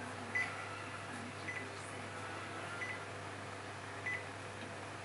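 Four faint, short electronic blips, each a quick high double pip, about a second and a bit apart, over a steady low hum.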